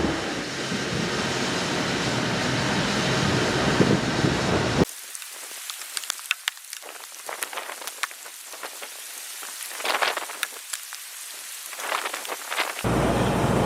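Heavy storm rain pouring on a surface in a steady rush. About five seconds in it cuts abruptly to a quieter stretch of scattered sharp impacts, and the loud rush returns abruptly near the end.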